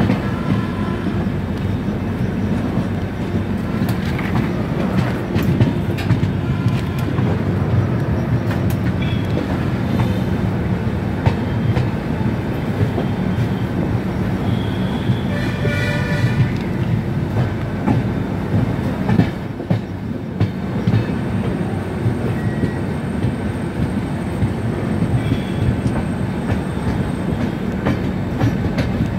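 Double-decker express coaches running along the track, heard from on board: a steady rumble with clickety-clack over rail joints and points. A brief pitched sound rises over it about halfway through.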